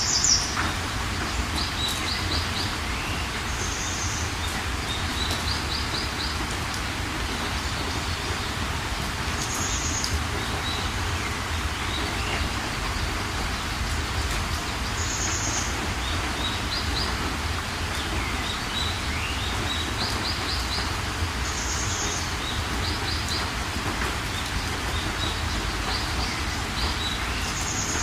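Steady rain hiss with songbirds calling over it. A short, high call comes every few seconds, along with quick trills of repeated notes and a few rising chirps.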